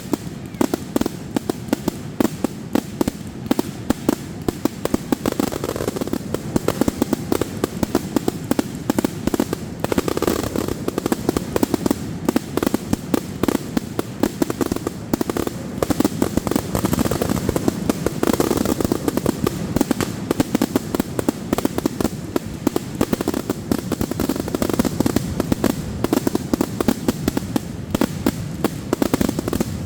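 Fireworks going off in a rapid, continuous barrage of bangs and crackles, many reports a second with no let-up.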